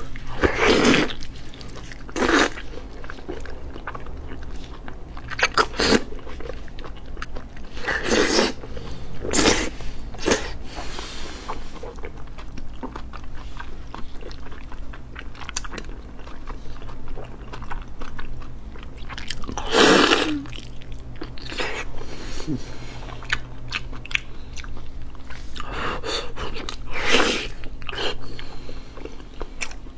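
Close-miked biting and chewing of glazed braised beef knee joint meat, with wet, sticky mouth sounds. A louder bite comes every few seconds, with quieter chewing between, over a low steady hum.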